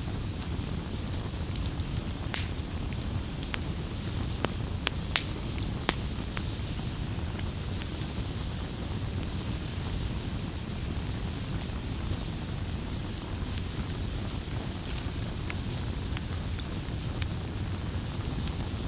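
Campfire crackling: sharp, scattered pops over a steady low rumble. The pops come thickest in the first six seconds, with a few more late on.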